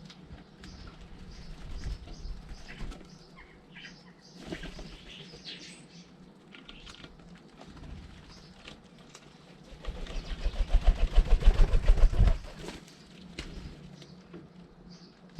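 Garden birds chirping in short scattered calls. About ten seconds in, a bird's wings flap rapidly and loudly for about two seconds, about eight beats a second.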